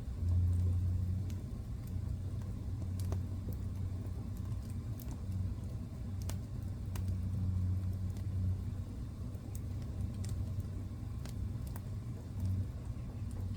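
Wood fire burning in a fireplace: a steady low rumble of the flames that swells and eases, with scattered sharp crackles and pops from the burning logs.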